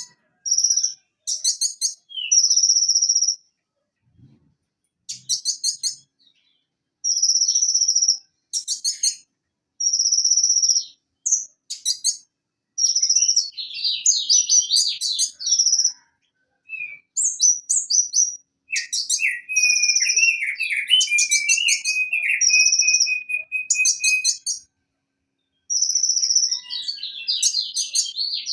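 Sunbird (konin, kolibri ninja) singing in bouts of high, sharp repeated notes and rapid trills, broken by short silent pauses. About two-thirds of the way through, a lower twittering phrase runs for several seconds under the high notes.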